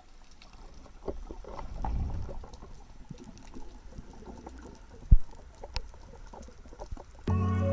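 Faint crackling and scattered clicks over a low rumble, with one sharp knock about five seconds in; music comes in near the end.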